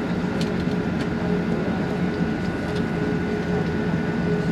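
Steady cabin noise inside an Airbus A380's lower deck before takeoff: engines and air system running with a constant hum and a few held tones, and a few faint clicks.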